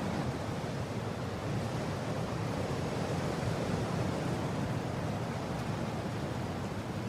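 Mountain wind blowing in a steady, even rush that is heaviest in the low range, with no whistling tones.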